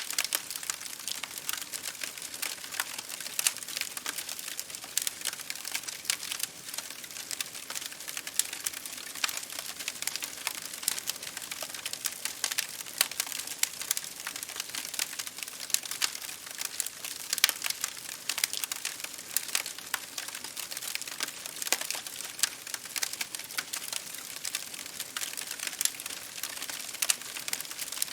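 Campfire crackling: a steady, dense run of small pops and snaps, with louder snaps standing out here and there.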